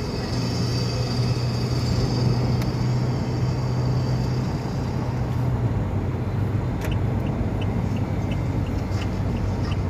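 Street traffic noise with a motor vehicle running steadily. A light regular ticking, about two to three a second, starts in the second half.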